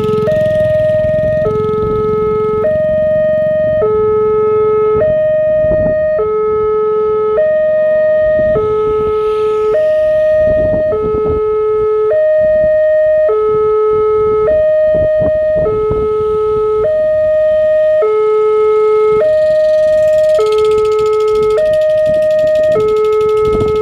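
Railway level-crossing warning alarm sounding as the crossing activates for an approaching train. It is an electronic two-tone bell of the older WANTECH type fitted to a KYOSAN x LEN crossing, alternating steadily between a lower and a higher tone about every half second.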